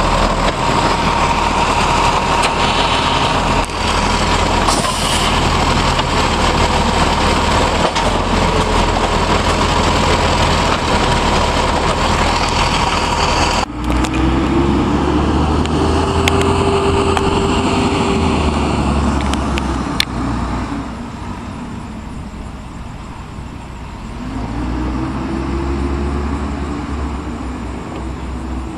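Garbage truck's diesel engine running with a steady whine over it at first. In the second half the engine revs up and settles back down twice.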